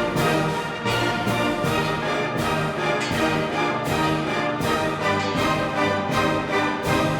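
Orchestral music with brass and strings playing held notes, crossed by sharp hits every half second to a second.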